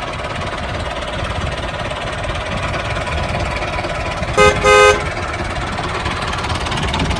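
Tractor engine running steadily, with a horn giving two short toots about four and a half seconds in.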